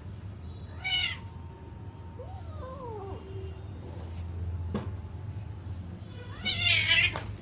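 Kitten meowing three times: a short high meow about a second in, a softer falling meow around three seconds, and the loudest meow near the end.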